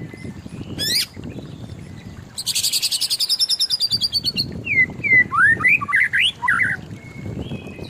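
White-rumped shama singing: a quick rising note, then a fast rattling trill of about ten notes a second for two seconds, then a run of varied whistled notes sliding up and down.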